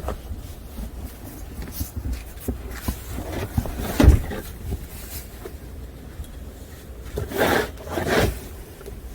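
Snow being crunched and scraped as it is handled and packed, with a heavier thump about four seconds in and two longer crunching scrapes near the end, over a low wind rumble on the microphone.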